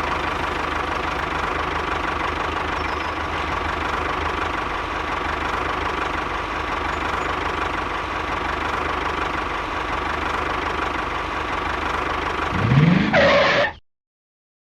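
A small motor running steadily with a faint steady whine. Near the end it rises briefly in pitch and then cuts off suddenly.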